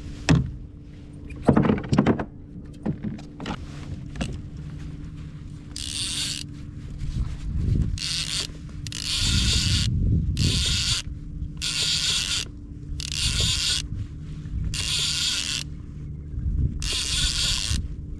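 Fishing reel cranked in short bursts, its gears whirring about eight times in a row through the second half, as bait is jigged and reeled up. A few knocks of rod and tackle handling come before it.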